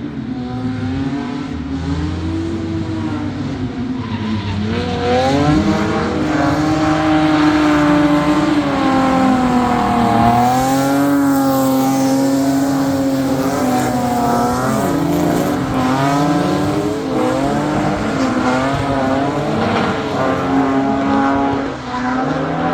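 Drift cars' engines revving hard, their pitch rising and falling again and again as throttle is worked through slides, with more than one engine heard at once. The sound grows louder about five seconds in.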